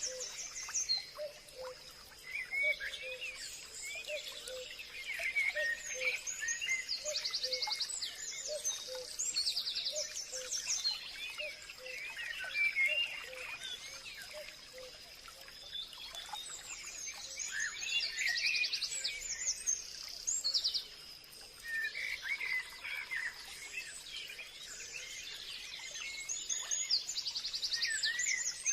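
Forest ambience: several birds chirping and calling over one another, with repeated fast rattling trills and a steady thin high tone running underneath.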